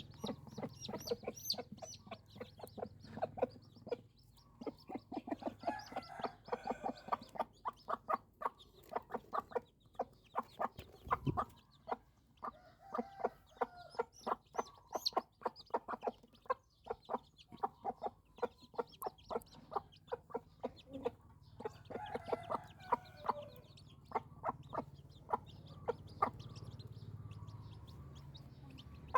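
Chickens clucking in quick runs of short notes that come and go in clusters, with a single low thump about eleven seconds in.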